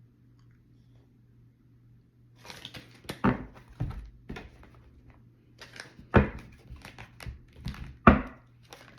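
A tarot deck being shuffled and handled: after a quiet start, a run of papery rustles and flicks with several sharper slaps of the cards.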